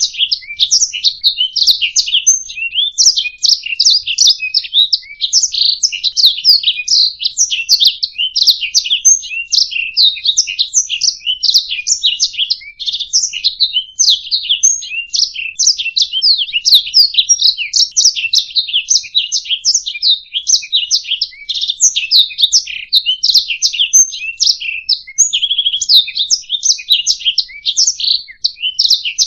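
Domestic canary singing: a long unbroken song of rapid trills, chirps and warbling notes, high-pitched throughout.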